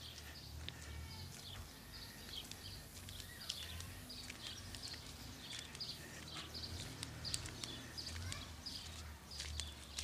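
Small birds chirping, a quick series of short high calls repeating through the whole stretch, over a low steady rumble.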